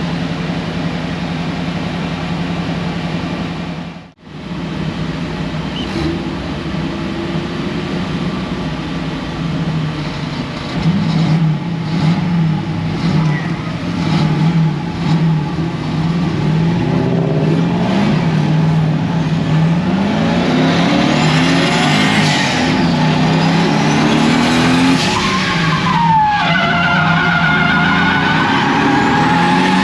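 Turbocharged Toyota 1UZ V8 in a BMW E36 drift car revving hard, its pitch rising and falling again and again, with tyres squealing as the car slides through a drift. The sound drops out briefly about four seconds in, and the tyre squeal grows stronger in the second half.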